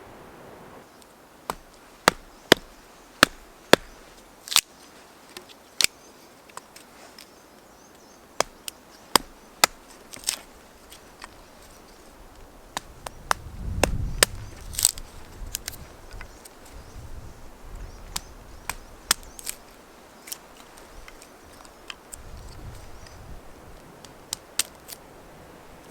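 A series of sharp, irregularly spaced strikes on wood, like small wood being chopped or split, about two dozen in all and loudest in the first few seconds. A low rumble swells briefly around the middle.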